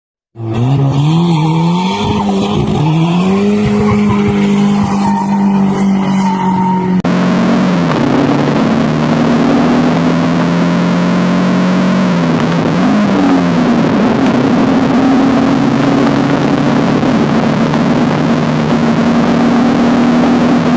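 Turbocharged Mazda F2T 2.2-litre four-cylinder of a big-turbo Ford Probe GT pulling hard at full throttle, its pitch climbing through the first few seconds. It then holds high revs at speed, with one brief dip and recovery partway through, like a gear change, under a constant rush of road and wind noise.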